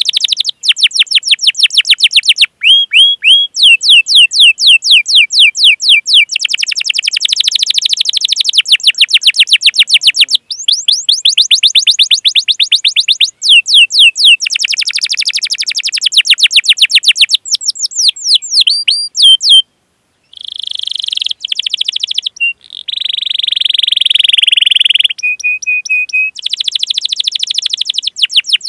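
Domestic canary singing: long runs of rapid, rising chirps in phrases, with a brief break about two-thirds of the way through followed by a buzzy rolling trill before the chirps resume.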